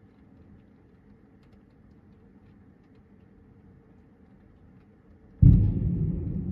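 Faint outdoor background, then about five seconds in a sudden loud clap of thunder that keeps rumbling.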